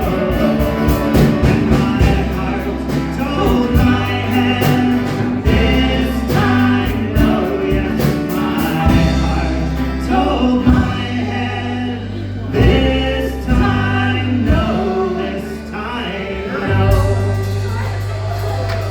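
Choir singing with instrumental accompaniment: many voices in harmony over long held bass notes and a regular drum beat.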